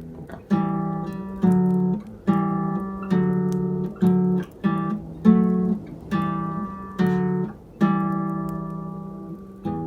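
Classical nylon-string guitar (an Almires) playing a slow phrase of plucked two-string intervals, about one a second, the last one left to ring for a couple of seconds.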